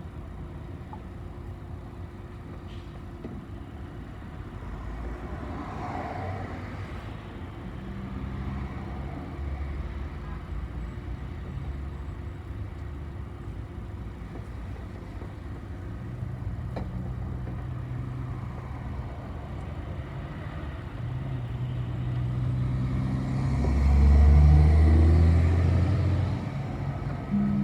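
A city bus's engine running, with road noise, heard from inside the cabin during a ride. The engine note steps up and down in pitch as the bus speeds up and slows. A louder swell of engine and road noise comes about three-quarters of the way through.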